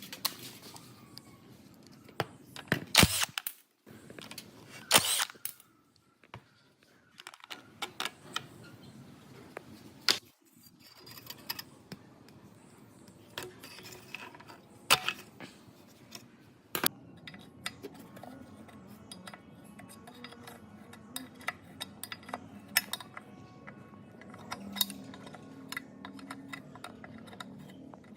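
Irregular sharp clicks and knocks of hand tools and metal parts being handled, a few loud and several faint, with short gaps between them.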